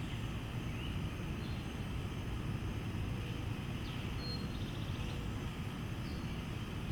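Steady low rumble of an Amazon Prime Air cargo jet, with a few faint bird chirps.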